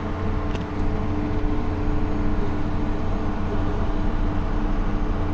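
Vehicle engine running steadily, heard from inside the cab: an even low drone with a couple of steady tones over it.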